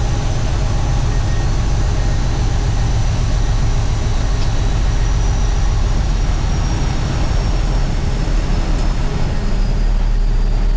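Semi truck's diesel engine running steadily at a low idle-like hum.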